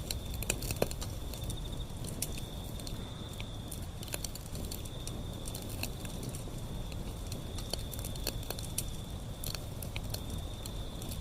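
Wood fire burning, with irregular sharp crackles and pops over a low, steady rumble of the flames. A thin, steady high-pitched tone runs in the background.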